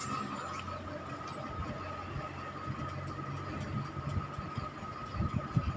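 Steady machine hum with a faint high whine, and a few low knocks near the end.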